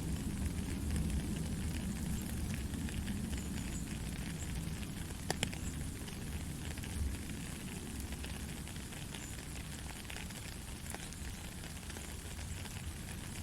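Soft rain falling steadily: an even patter with scattered individual drop ticks and one sharper tap about five seconds in.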